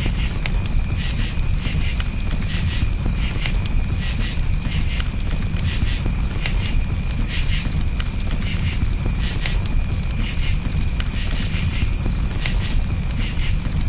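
Crickets chirping in repeated pulsed trills over a crackling campfire, with scattered sharp pops and a steady low rumble from the fire.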